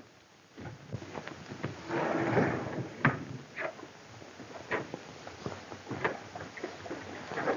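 A scattering of short, irregular knocks and clicks, with a scraping rush about two seconds in, like a door and movement in a room.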